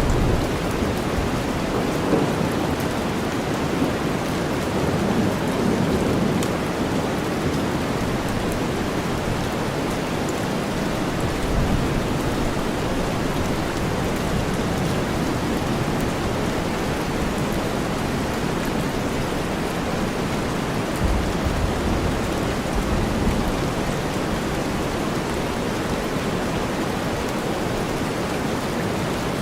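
Steady rain blended with deep white noise, an even hiss heaviest in the low range, with a few brief low rumbles.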